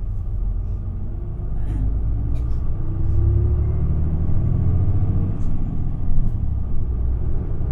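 Isuzu Erga city bus running, heard from inside the cabin: deep engine and road rumble that grows louder about three seconds in, with a few faint ticks and rattles.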